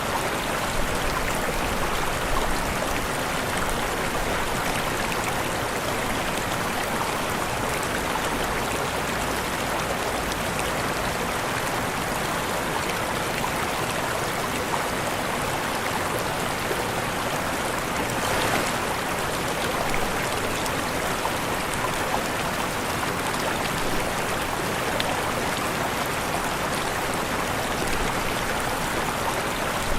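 Waterfall rushing steadily, an even splashing hiss of falling water with no break.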